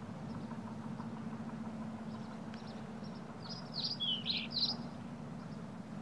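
Small birds chirping over a steady low hum. A quick run of louder, downward-sweeping chirps comes about three and a half seconds in.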